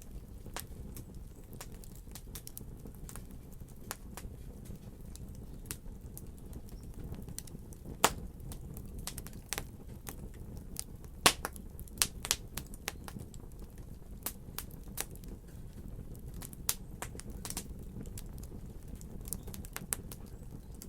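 Wood fire crackling: a steady low rumble of burning with irregular sharp pops and snaps, the loudest few about 8 and 11 to 12 seconds in.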